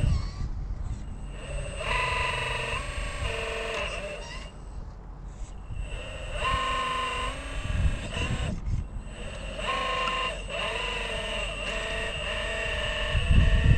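Electric motor and gear whine of a radio-controlled crawler truck driving, its pitch holding steady and then shifting or bending as the throttle changes. Wind rumble on the microphone sits underneath.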